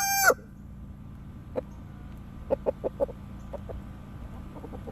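Blue Laced Red Wyandotte chickens: the tail of a rooster's crow cuts off just after the start, then several short, soft clucks follow over the next few seconds.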